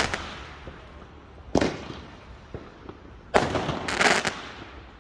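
Fireworks going off: a loud bang at the start, another about a second and a half later, then a cluster of bangs near the end, each trailing off in an echo.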